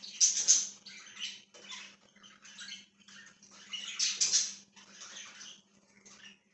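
Pet budgies (budgerigars) chirping and chattering in irregular bursts, loudest about half a second in and again about four seconds in, over a faint steady low hum.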